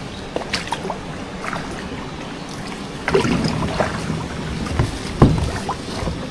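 River water splashing and lapping as people move about in it, with small irregular splashes and a brief louder splash about five seconds in.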